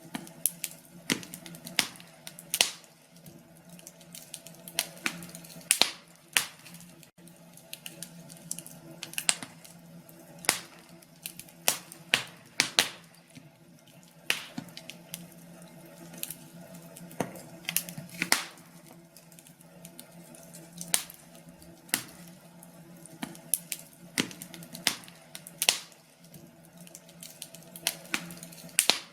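Log fire crackling: irregular sharp pops and snaps at uneven intervals over a faint steady low hum.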